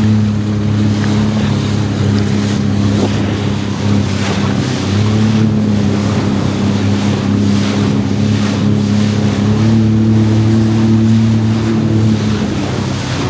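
Jet ski engine running at a steady pitch while riding on open water, easing off briefly about four seconds in, with wind buffeting the microphone.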